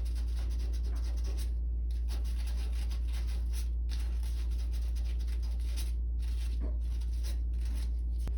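Hand sanding a pipe end with sandpaper: quick scratchy rubbing strokes with a few short pauses, over a steady low hum.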